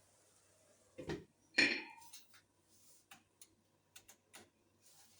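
Kitchen cookware clattering: two clanks about a second in, the second with a short ring, followed by several lighter taps and clicks.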